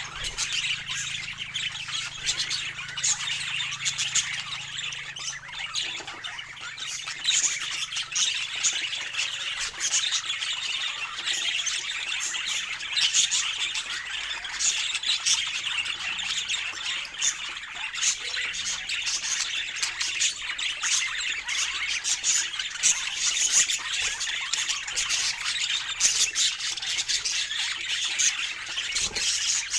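Budgerigars chattering: a dense, unbroken stream of short chirps, warbles and squawks.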